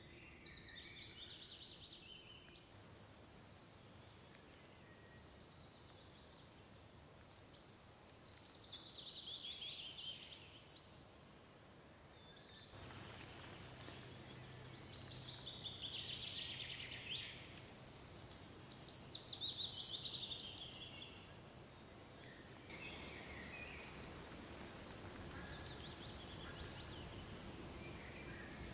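A songbird repeatedly singing a short, high phrase that slides downward in pitch, about six times, over a faint steady hiss of ambient noise that jumps in level at a few edits between recordings.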